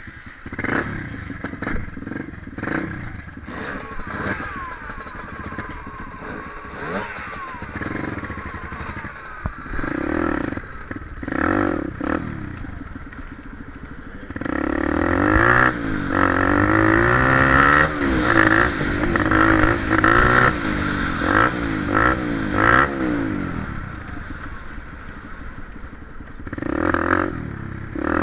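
Dirt bike engine running and being revved, its pitch rising and falling again and again. It gets much louder about halfway through, with quick repeated revs.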